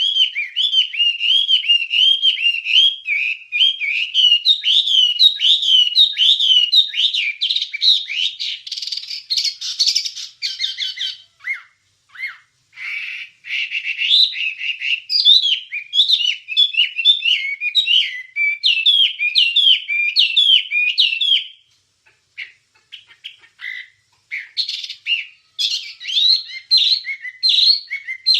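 Wambie songbird singing a fast, chattering run of quick sweeping chirps. There is a brief pause a little before the middle, and the song thins out to scattered notes for a couple of seconds near the end before picking up again.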